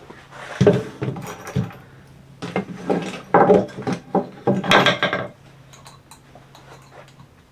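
Wooden boards being handled and knocked together: a string of irregular clunks and rattles in the first five seconds, then quieter handling, over a faint steady low hum.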